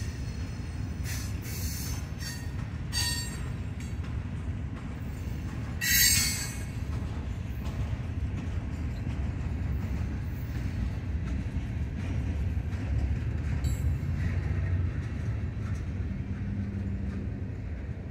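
Loaded ballast hopper cars rolling over the rails with a steady low rumble, broken by several short, high-pitched bursts of wheel squeal in the first few seconds, the loudest about six seconds in.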